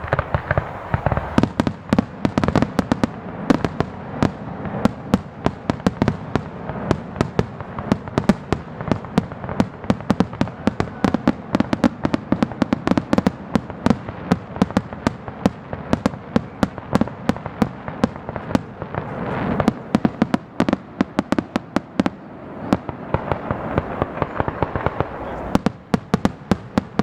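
Aerial fireworks going off in a rapid, continuous barrage: sharp cracks and bangs several times a second with no pause, over a steady rumble of blasts.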